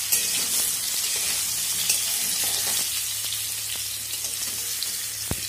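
Potato and pumpkin chunks sizzling steadily as they fry in mustard oil in a metal kadai, with light scrapes of a spatula stirring them and one sharp tick near the end.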